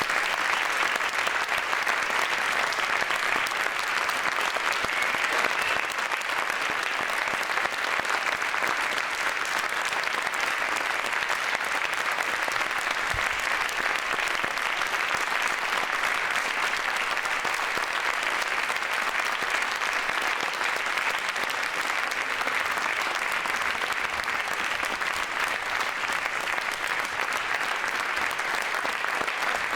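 A large crowd applauding steadily, the claps blending into one dense continuous wash. It eases off slightly about six seconds in, then holds level.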